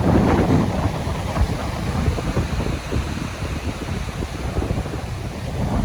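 Strong wind buffeting the microphone in gusts, a heavy low rumble that eases in the middle and swells again near the end.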